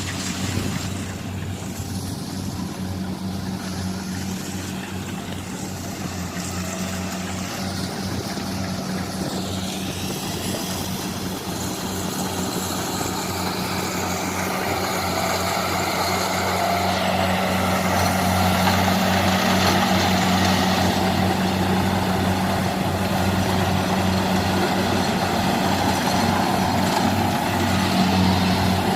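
Kubota DC-70 combine harvester's diesel engine running steadily, getting louder in the second half as more mechanical noise builds up.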